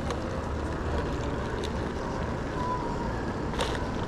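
Steady outdoor traffic noise, with a brief click about three and a half seconds in.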